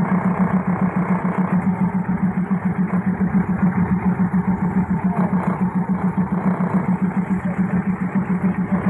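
Diesel railcar engine running with a fast, even throb, heard from on board the moving train.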